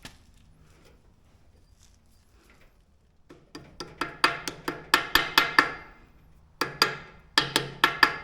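Hammer striking steel on the skid steer's quick-attach hardware: sharp ringing blows at about four or five a second, in two runs, the first starting about three seconds in and the second near the end.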